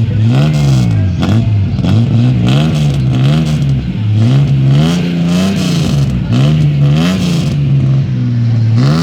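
Chevrolet Opala's inline-six engine revved again and again in quick throttle blips, each rev rising and falling back toward idle, with a loud, deep rumble.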